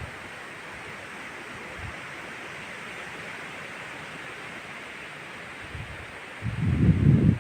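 Wind blowing through pine and spruce forest, a steady rushing hiss. Near the end a loud gust buffets the microphone with a low rumble.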